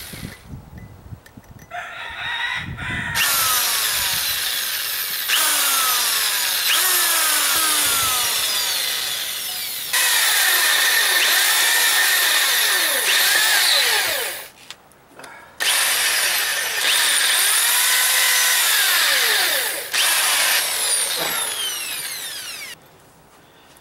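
Electric drill boring a small pilot hole into a broken-off anode bolt on an outboard motor, so the bolt can be removed with an easy-out. The drill runs in long stretches, its pitch changing as the speed varies, with a short stop about halfway through and a stop near the end.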